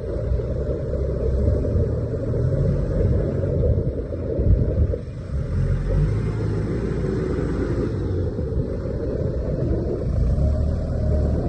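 New Holland T5570 tractor's diesel engine running with a steady low rumble.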